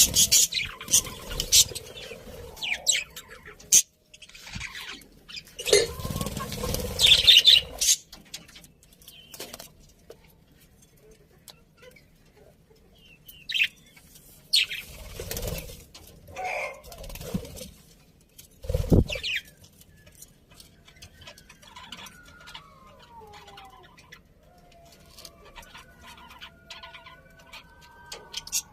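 Pet budgerigars chirping in short, sharp bursts, with a louder rustle about six seconds in. Quieter gliding warbled notes follow near the end.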